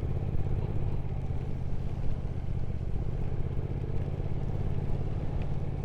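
Triumph Speed Twin 1200's parallel-twin engine running steadily at a constant road speed, with wind and road noise on the helmet microphone.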